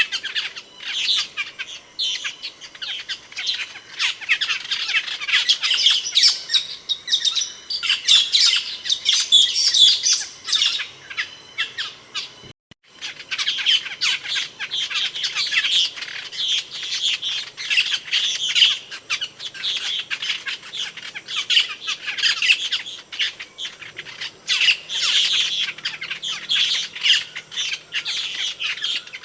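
Asian glossy starling (cucak keling) calling: a dense run of rapid, sharp squawks and chirps, broken by a sudden brief gap about halfway through.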